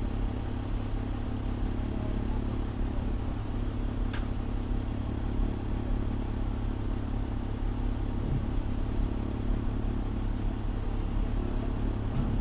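Fire engine's diesel engine idling steadily, a low even rumble heard from the dashcam inside the cab, with one faint short tick about four seconds in.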